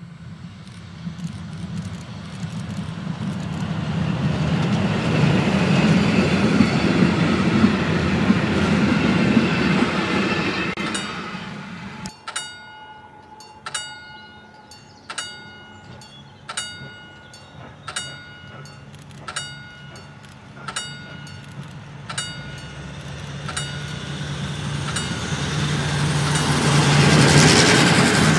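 A train runs past, its rumble swelling and then falling away. A series of evenly spaced ringing metallic strikes follows, about one every one and a half seconds, eight in all. Near the end a train's rumble builds up loud again.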